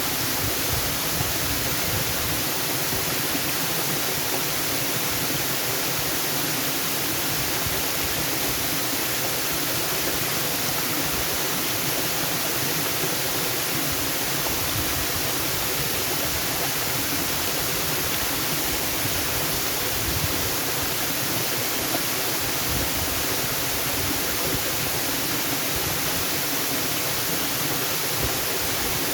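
Waterfall water rushing with a steady, unbroken roar of falling water.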